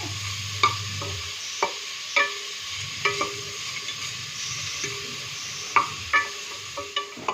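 Sliced onions sizzling as they fry in hot oil in a pot, being sautéed until brown. A spoon stirs them, knocking against the pot about eight times at uneven intervals, some knocks followed by a brief ring.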